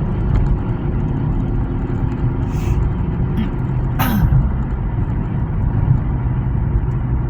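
Steady low rumble inside a moving car's cabin, road and engine noise with strong gusting wind pushing against the car. A short falling sound with a click comes about four seconds in.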